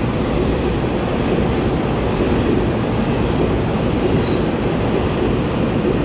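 Taiwan Railway EMU3000 twelve-car electric express train (set EMU3040) passing close along the platform: a loud, steady, deep rumble of wheels on rail and rushing air.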